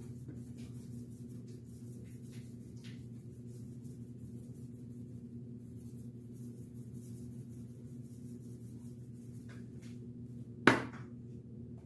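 Steady low hum with a few faint light taps, and one sharp knock about ten and a half seconds in, from seasoning containers being handled and set down while a turkey is seasoned.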